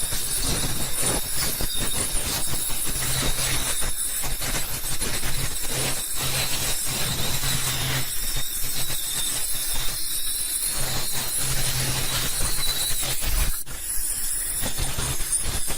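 Podiatry nail drill running steadily with a hiss, a low hum coming and going as it works on the nail.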